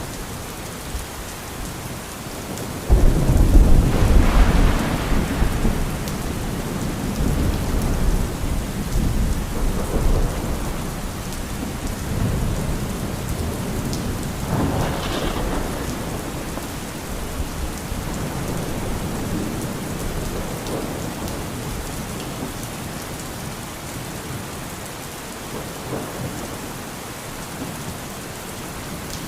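Steady rain falling during a thunderstorm. A sudden loud thunderclap about three seconds in rumbles on for several seconds, and another roll of thunder comes about halfway through.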